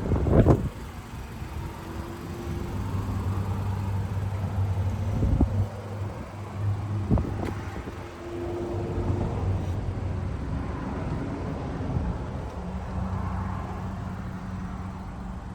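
2016 Mazda CX-5's 2.5-litre four-cylinder engine running with a steady low hum. A sharp knock comes about half a second in, and a few light clicks follow midway.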